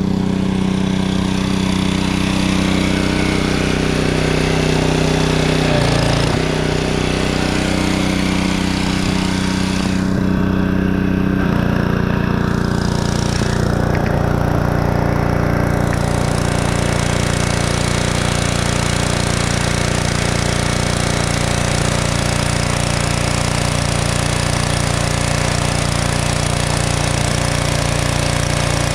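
Pressure washer running steadily, spraying; its pitch drops a little about eleven seconds in and then holds steady.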